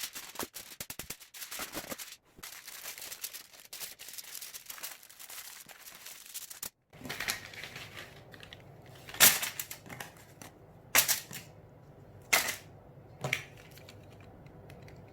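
Crackling, rustling handling noise for about seven seconds as things are set out on a tray, then several sharp separate knocks and clatters.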